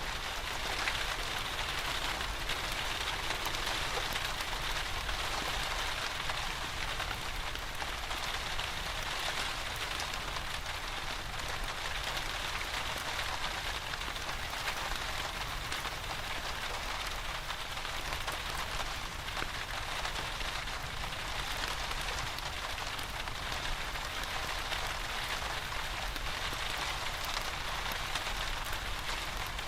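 Steady rain with a dense patter of drops, and a low, even rumble underneath.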